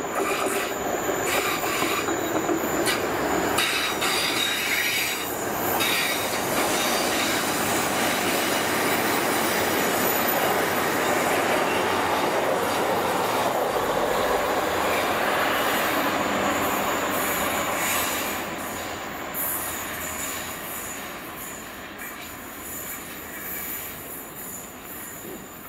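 Passenger train passing close by, its wheels running on the rails with a thin high steady tone over the noise. It is loud and steady for most of the time, then fades away over the last several seconds.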